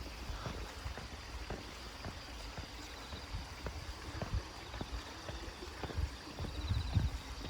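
Footsteps of a person walking on a path at a steady pace of about two steps a second, with a faint steady high hiss behind them.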